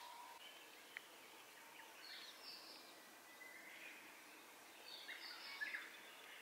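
Faint birdsong over quiet outdoor ambience: two short runs of chirps, about two seconds in and again about five seconds in, with a single faint click about a second in.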